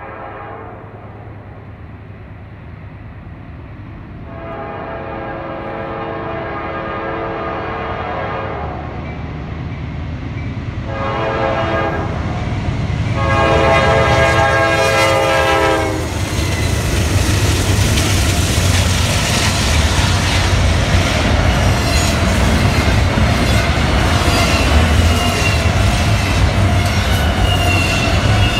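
Norfolk Southern GE Dash-9 locomotive's air horn sounding long blasts and a short one, the grade-crossing signal, as the train approaches. About halfway through, the three-unit Dash-9 lash-up passes at speed, and the double-stacked intermodal cars follow with a steady, loud rumble and wheel-on-rail clatter.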